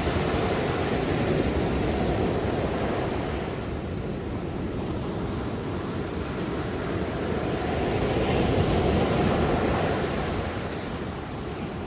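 Ocean waves breaking on a shore in a steady wash of surf, swelling twice: once in the first few seconds and again about eight to ten seconds in.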